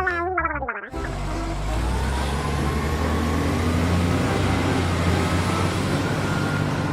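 Large truck engine running steadily, heavy in the low end, after a short voice-like sound in the first second.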